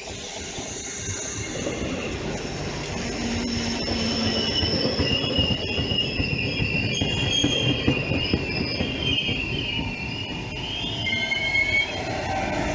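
A regional passenger train running slowly past along the platform, its wheels and brakes squealing in several high tones over a steady rumble that grows louder as the coaches go by. Near the end a lower tone slides downward.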